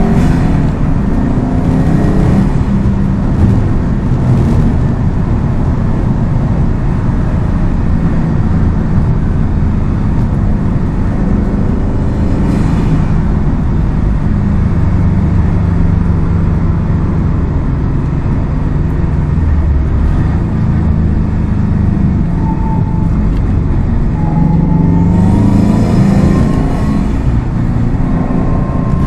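Subaru WRX STI's turbocharged flat-four engine and exhaust under way, mostly holding a steady pitch, with the revs climbing a few times near the end.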